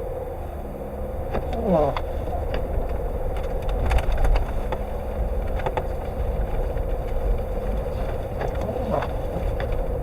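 Car cabin noise while driving in a blizzard: low road and engine rumble under a steady hum. Two sweeping strokes of the windshield wipers, about seven seconds apart, and a few light knocks around the middle.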